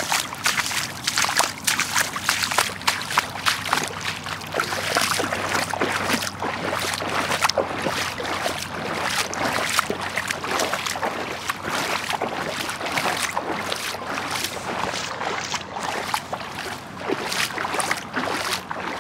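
Floodwater splashing and sloshing: many irregular sharp splashes over a steady rush of moving water.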